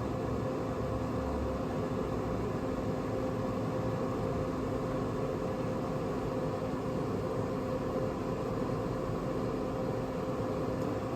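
Traeger Scout portable pellet grill running as it heats up with the lid closed: a steady hum of its fan and auger motor, with a couple of steady tones in it.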